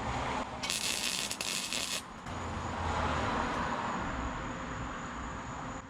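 One burst of arc welding, about a second long, a dense crackling hiss that starts and stops sharply, filling a small gap in a steel exhaust pipe joint.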